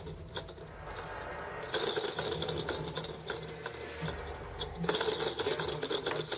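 Plastic baby exersaucer toys clicking and rattling irregularly as they are handled, over a low steady hum.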